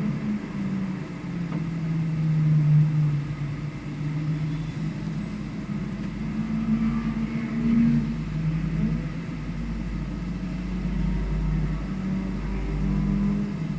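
A vehicle engine running hard on a race circuit, its pitch rising and falling again and again as it accelerates and eases off, over a steady low rumble.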